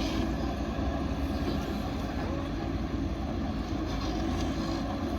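JCB backhoe loader's diesel engine running steadily at work.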